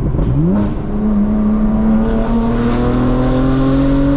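BMW M4 twin-turbo inline-six through a straight-piped exhaust (downpipe to axle-back with a small performance muffler), heard from inside the cabin. The revs swing up quickly at a gear change in the first half second, then the engine pulls hard with its pitch climbing steadily, and drops at another shift near the end.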